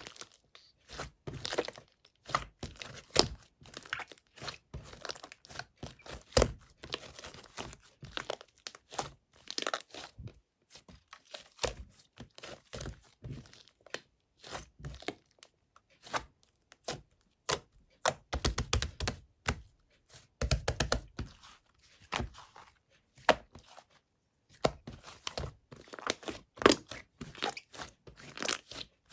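Hands kneading, stretching and squishing clear slime mixed with clay, giving a dense run of irregular sticky crackles and clicks, with a short pause near the end.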